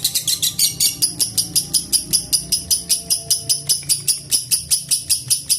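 Lovebird ngekek: a long, unbroken run of rapid, high-pitched chattering notes, about five to six a second, evenly spaced.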